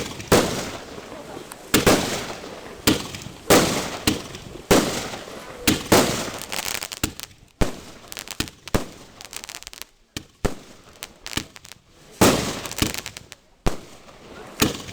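Fireworks bursting: loud bangs about once a second, each trailing off in an echo. Partway through they give way to a few seconds of lighter crackling, and the bangs pick up again near the end.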